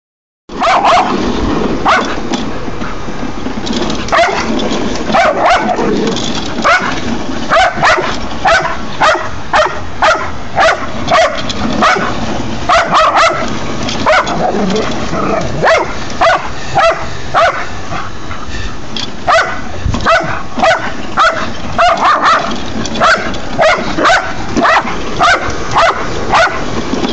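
A dog barking repeatedly, about one or two sharp barks a second with a short lull about two-thirds of the way through, over the steady drone of a running lawn mower.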